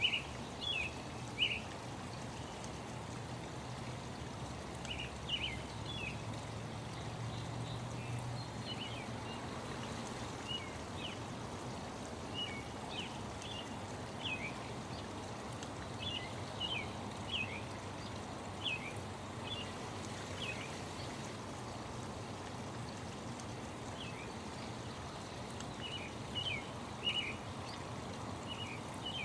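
Small birds chirping in short calls, scattered in little clusters, over a steady rush of flowing water.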